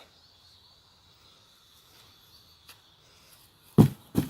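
Two sharp blows of a small hammer on a cardboard box near the end, after a quiet stretch with only a faint high steady whine.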